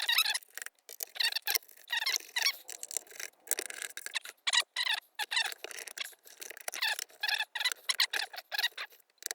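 Screwdriver turning screws out of the back of a Roberts 94i radio's case, a quick run of short, irregular squeaks as the threads back out.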